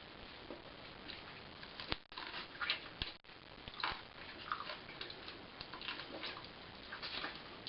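A person eating cooked pig's trotters: irregular chewing, and sucking of the meat off the bones, with two sharp clicks about two and three seconds in.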